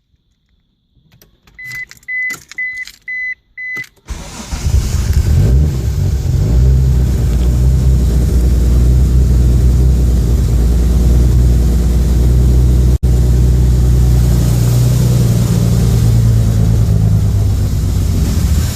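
A few clicks and five short, evenly spaced electronic beeps, then about four seconds in a car engine starts from cold and settles into a steady idle, held by a newly fitted idle speed control solenoid.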